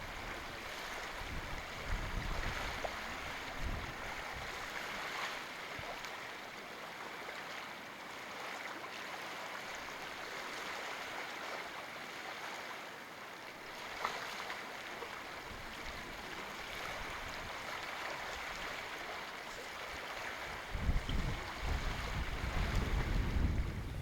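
Sea waves washing steadily on the shore, with wind gusting against the microphone near the start and again near the end.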